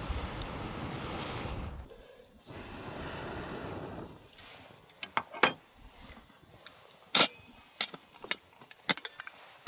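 Two stretches of steady rushing hiss, then from about halfway a scattering of sharp clicks and clinks of metal camp cookware being handled.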